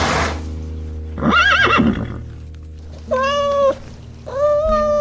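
Animal calls over soft background music: a wavering call rising and falling about a second in, then two drawn-out, steady-pitched calls near the end.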